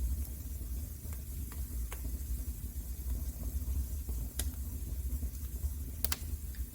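Wood fire crackling in a fireplace: scattered sharp pops and snaps, about half a dozen, over a low steady rumble of the flames.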